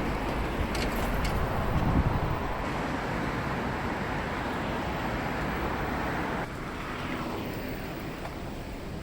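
City street traffic: a steady wash of passing vehicles that eases off about six and a half seconds in.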